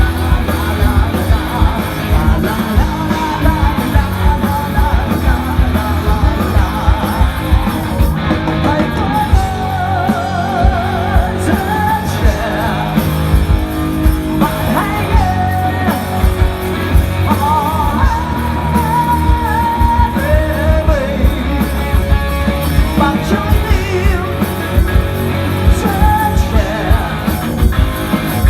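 A rock band playing live and loud: drums and bass keep a steady beat under electric guitars, with a wavering, pitch-bending melody line over the middle of the passage.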